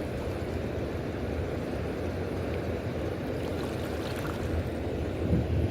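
Steady rushing noise of the river's flowing water, even and unbroken, with a brief low bump near the end.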